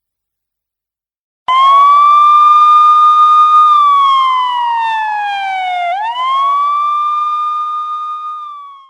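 Silence, then about a second and a half in a loud siren tone starts, holds steady, slides slowly down, snaps back up, holds again and cuts off at the end.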